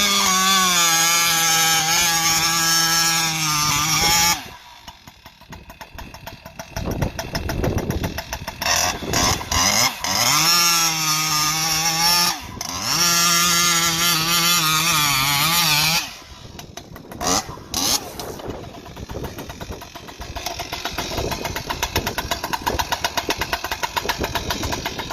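Husqvarna 592 XP two-stroke chainsaw with a prototype expansion pipe running at full throttle in two long bursts of several seconds, its pitch sagging slightly as it pulls through the wood cutting noodles. Between the bursts, and for the last third, it drops back to a rough idle.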